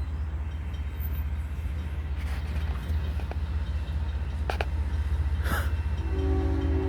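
Diesel freight locomotive running with a steady low throb that slowly grows louder as the train approaches. About six seconds in, its Nathan K5HLL five-chime air horn starts to sound a held chord.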